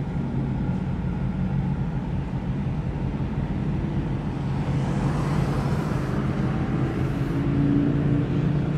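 Car engine running steadily at low revs, a low hum heard from inside the car, with a faint hiss swelling briefly about five seconds in.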